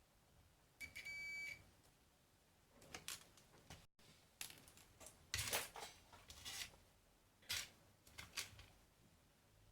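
A digital multimeter beeping once, a steady high tone held for under a second, while diodes are being tested, followed by scattered clicks and taps of test probes and handling on the circuit board.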